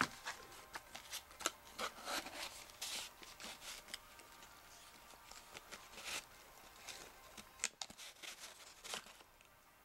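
Light rustling and tapping of cardstock as a paper explosion box is handled, with scattered short clicks throughout and the busiest handling about two to three seconds in.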